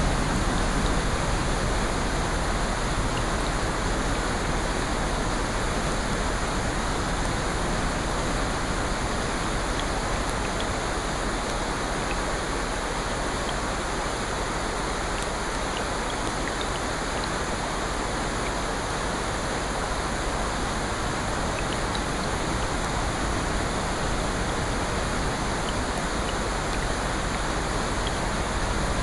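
Steady rushing of rain and ocean surf mixed into one even wash of noise, swelling gently in loudness, with a few faint scattered ticks.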